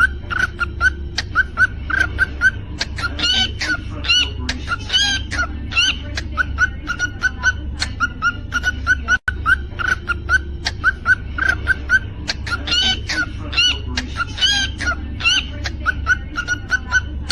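Cockatiel whistling and chirping: a quick run of short, even chirps broken by bursts of higher rising, warbled whistle notes, over a steady low hum. After a brief break about nine seconds in, the same passage seems to start over.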